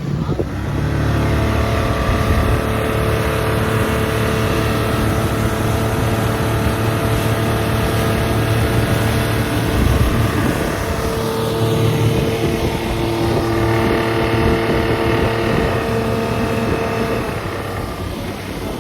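Motorboat engine running steadily under way. Its note shifts briefly about halfway through, with wind and water noise around it.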